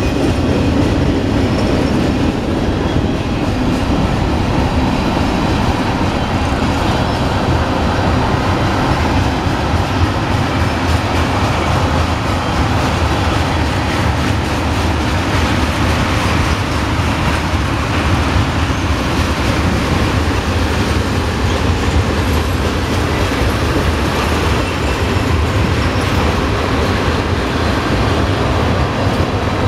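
Tank cars and boxcars of a Norfolk Southern mixed freight train rolling past, a loud, steady rumble of steel wheels on rail.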